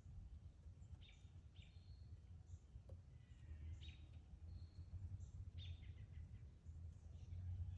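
Faint short bird chirps, repeated every second or so, over a steady low rumble.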